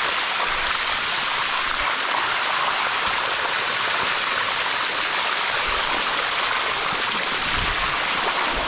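Steady rush of waterfall water flowing over rock.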